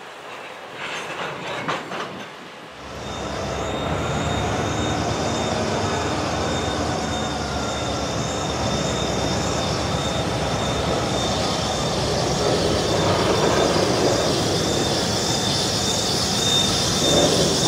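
Covered hopper freight cars rolling past over the rails. From about three seconds in the wheels run with a steady, high-pitched squeal over the rolling noise.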